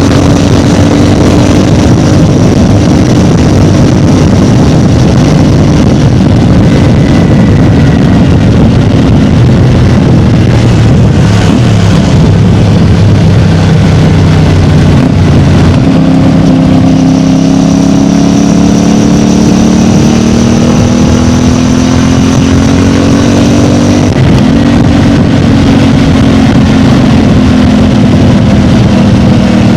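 CFMOTO 450MT motorcycle's 449 cc parallel-twin engine running through its stock exhaust, loud and continuous. The engine note sits lower for a few seconds near the middle, then climbs slowly and briefly dips sharply about two-thirds of the way through before picking up again.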